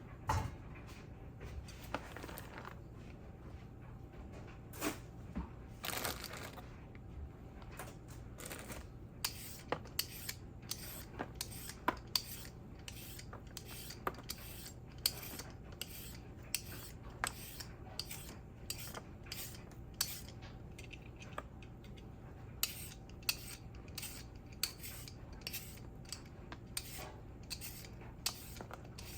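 A kitchen knife cutting English cucumber on a cutting board: a series of sharp, irregular knocks, at times several a second, getting denser after about twenty seconds.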